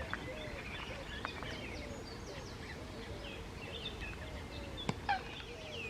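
Small songbirds chirping and singing, many quick high notes and trills overlapping. There are two sharp clicks about five seconds in.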